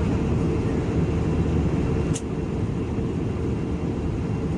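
Steady low rumble of an Airbus A321-200's airliner cabin in flight, with a faint steady hum on top. A single short click comes about two seconds in, after which the noise is a little quieter.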